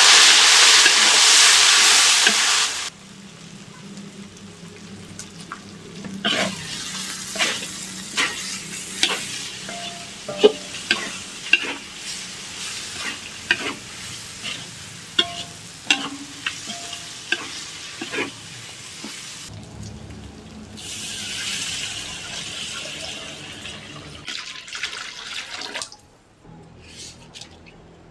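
Food sizzling in a hot pan, loud at first, then a cooking utensil clicking and scraping against the pan as it is stirred. A second stretch of sizzling comes about two-thirds of the way through.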